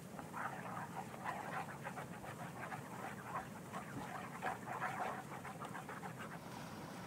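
Wooden spoon stirring a thick, wet paste in a wooden bowl: a quick, irregular run of wet squelching strokes that stops near the end.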